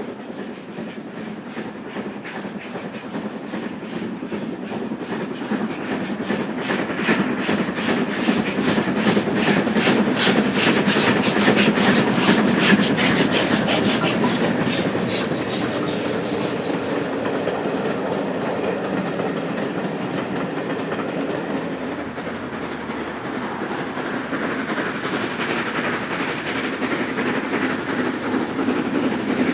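Steam-hauled train passing close by, with a fast, even beat that builds to its loudest about halfway through and then fades as the train runs on.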